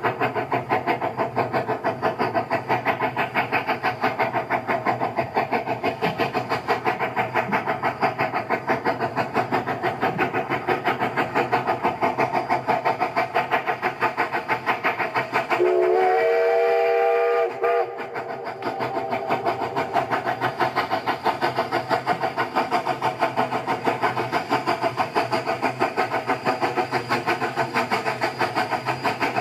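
Rail equipment running with a steady rapid pulsing. About halfway in, a train whistle sounds for about two seconds, sliding up in pitch as it starts.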